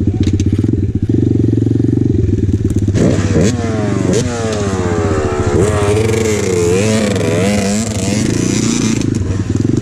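2020 Apollo RFZ 125cc pit bike's single-cylinder engine running steadily at low revs, then revving up and down repeatedly for about six seconds as the bike is ridden over a rough trail, dropping back to a steady low-rev run near the end.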